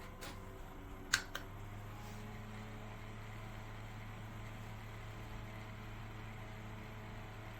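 Small USB desk fan running steadily with a low hum, with two sharp clicks just over a second in.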